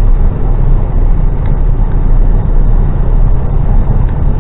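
Loaded HGV truck's diesel engine and road noise heard from inside the cab, a steady loud low rumble as the truck runs downhill at speed to build momentum for a climb.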